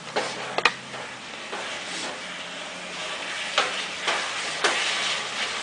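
Chili ingredients sizzling in a hot pot while being stirred with a spoon, the sizzle growing louder, with several sharp clinks of the spoon against the pot.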